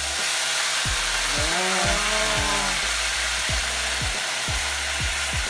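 Canned sardines in tomato sauce sizzling steadily in hot oil as they are sautéed and stirred with a wooden spatula. Background music with a steady beat plays faintly underneath.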